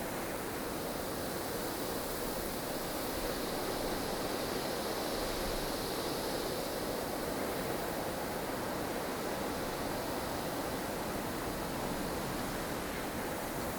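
Strong wind of a blustery snowstorm, a steady rushing noise that swells a little in the middle.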